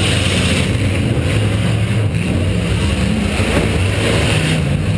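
Demolition derby car's V8 engine running loud and steady, its pitch wavering as the throttle changes, heard from a camera mounted on board.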